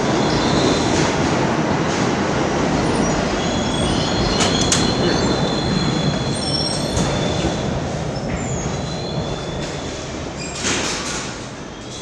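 D train subway cars running through the station, with a steady rumble, high wheel squeal and a few sharp clicks from the rails. The sound fades in the last few seconds as the train draws away.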